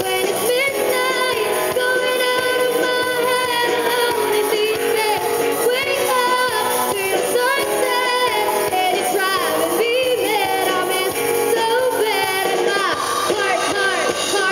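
Amateur rock band playing live: guitars, bass, drums and piano, with a melodic lead line gliding between notes.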